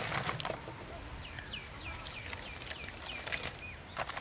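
A bird calling a quick run of about ten short notes, each sliding down in pitch, about four a second, with a few sharp knocks of vegetables being handled at the start and near the end.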